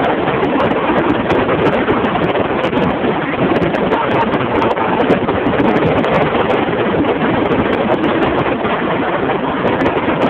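Fireworks crackling and popping in a dense, continuous barrage: a loud, steady noise with many sharp clicks running through it.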